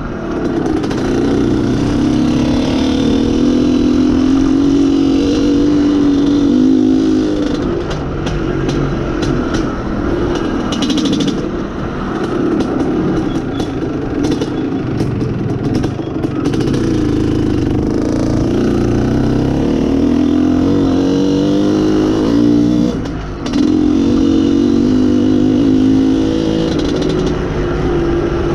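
IZh Planeta Sport motorcycle's single-cylinder two-stroke engine running under way, its pitch rising and falling with the throttle. It eases off briefly near the end before picking up again.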